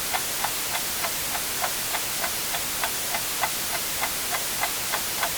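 Clock ticking steadily, about three ticks a second, over a constant white-noise hiss.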